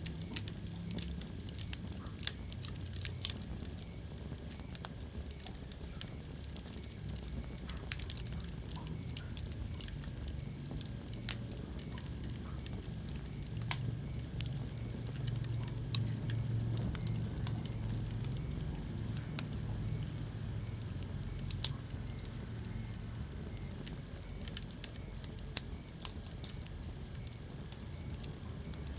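Wood fire crackling, with scattered sharp pops and a few louder snaps over a steady low rumble.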